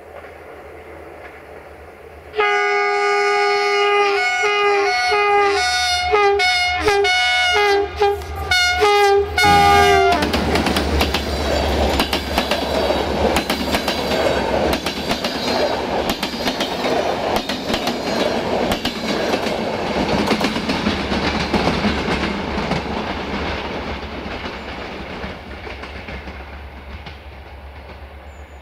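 Electroputere-GM class 65 'Jimmy' diesel-electric locomotive sounding its multi-tone horn: one long blast, then a quick run of short blasts for about six seconds, the last one sliding down in pitch. The locomotive and its passenger coaches then roll past with rhythmic wheel clatter over the rail joints, fading away over the last several seconds.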